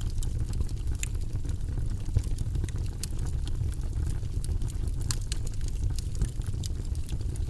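Wood logs burning in a fireplace: a steady low rumble of flame with scattered sharp crackles and pops at irregular moments.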